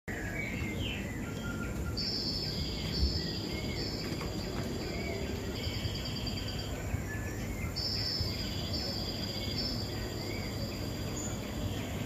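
Birds singing: two runs of high, repeated whistled notes, one about two seconds in and another near eight seconds, with scattered lower chirps throughout over a steady background noise.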